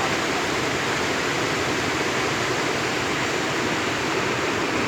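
Floodwater rushing in a flash flood: a loud, steady, unbroken noise.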